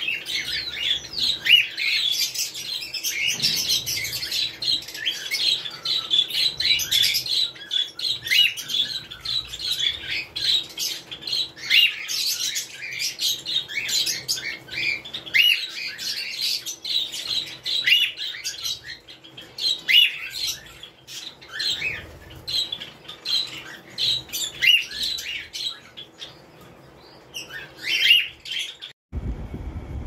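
Small cage birds chirping in a busy, continuous run of short high chirps and calls. The chirping stops suddenly about a second before the end, giving way to a low rumble.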